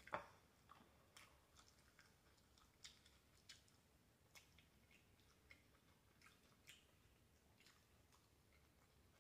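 Faint chewing of fried food, with scattered soft, irregular mouth clicks and crackles.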